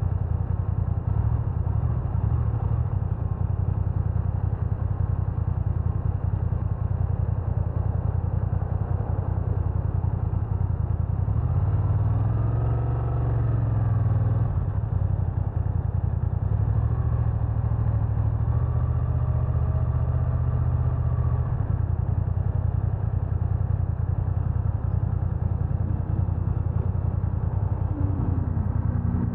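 BMW F900R parallel-twin motorcycle running while being ridden, under a dense low rumble. About twelve seconds in, the engine pitch briefly rises and falls, and it changes again near the end.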